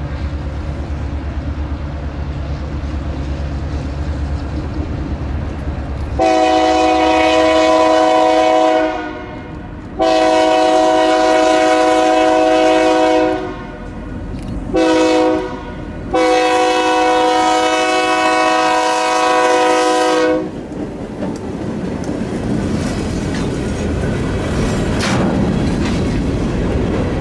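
EMD GP9 diesel locomotive approaching with its engine rumbling, then sounding its multi-tone air horn four times, long, long, short, long: the grade-crossing signal. It then passes, with freight cars rolling by with wheel noise on the rails.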